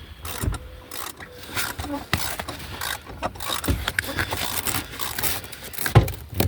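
Irregular scraping and clicking with a few heavier knocks as a car seat is worked loose and lifted out of the stripped interior, its frame knocking against the car.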